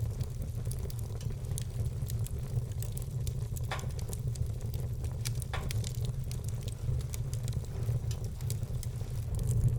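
Wood fire burning in a fireplace, crackling with scattered sharp pops, two of them louder about four and six seconds in, over a steady low rumble.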